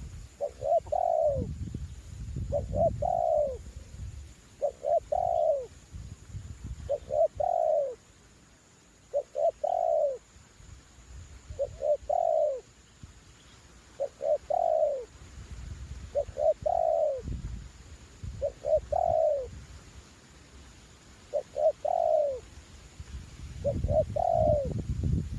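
Spotted dove (terkukur) decoy cooing its song over and over, a phrase about every two seconds: a couple of short notes, then a longer falling coo. Wind buffets the microphone now and then with a low rumble.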